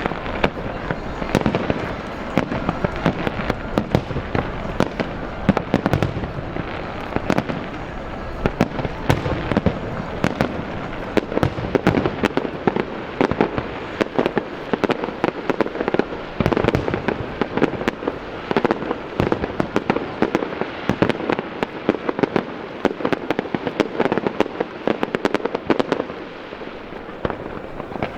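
Fireworks going off in a rapid, continuous barrage of bangs and crackles, many per second, with louder reports standing out among them.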